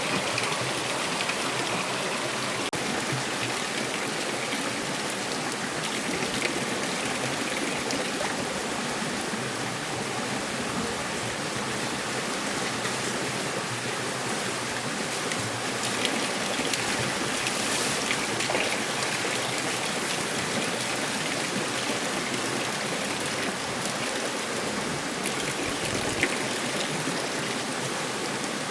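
Steady rush of running water, with a few faint taps and clicks scattered through it.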